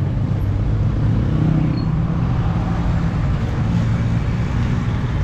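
Motor vehicle engine running steadily amid road and traffic noise, like riding along a city street.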